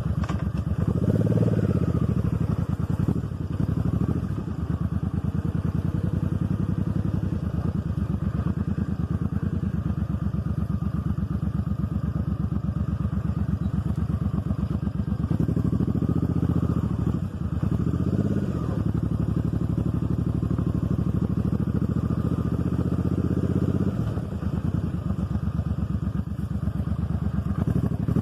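Motorcycle engine running under way, its exhaust pulsing steadily, with the revs swelling briefly about a second in and a few more times between about fifteen and nineteen seconds.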